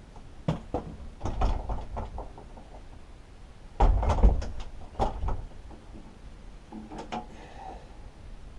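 Workbench handling noises: a series of knocks and clunks of metal parts and tools being picked up and set down, in small clusters, the loudest about four seconds in.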